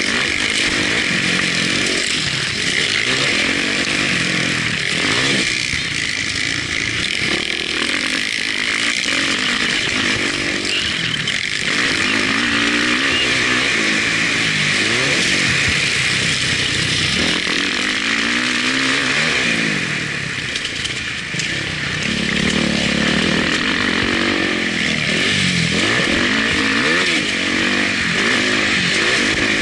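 Motocross bike engine revving up and falling off again and again as the rider accelerates and brakes through the corners, heard from the onboard camera over a steady high hiss.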